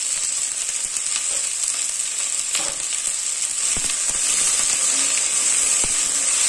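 Sliced okra sizzling steadily in oil in a black kadai. About halfway through, a wooden spatula starts stirring and tossing it, with a few sharp knocks against the pan.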